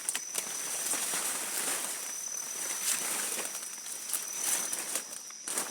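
Leaves, twigs and branches rustling and crackling as someone forces a way through dense rainforest undergrowth, cutting off abruptly at the end. A steady high insect drone runs underneath.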